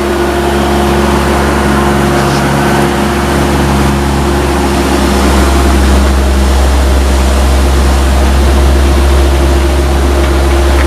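Heavy trailer truck's diesel engine running steadily under an 85-ton load, a deep hum with a steady drone above it that grows louder about five seconds in.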